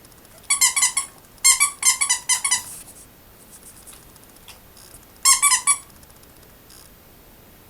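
Squeaky plush teddy toy squeezed again and again, giving quick runs of high squeaks in three bursts: one about half a second in, a longer one around two seconds in, and a short one a little after five seconds.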